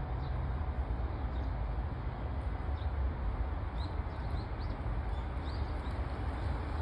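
Steady low outdoor rumble, with faint short high bird chirps scattered through it, a dozen or so, mostly in the second half.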